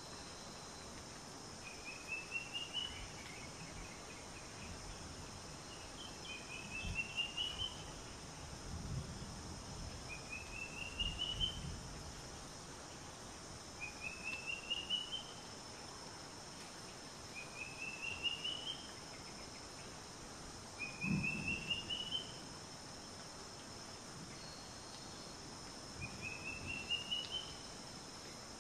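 A bird's short rising call, a quick run of notes lasting about a second, repeated about every four seconds over a steady background hiss, with a few soft low rumbles.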